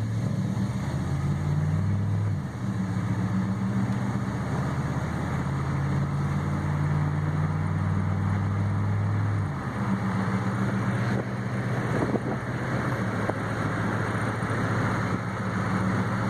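Chevy pickup truck's engine, heard from inside the cab, pulling under acceleration, its note dropping twice, about two and a half seconds in and again near the middle, as the transmission shifts up smoothly through the gears.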